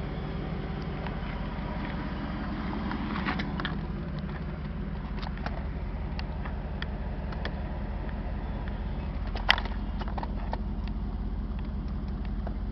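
1993 Camaro Z28's 5.7-litre LT1 V8 idling steadily through a cat-delete exhaust. A sharp click comes about nine and a half seconds in, with a few fainter ticks around it.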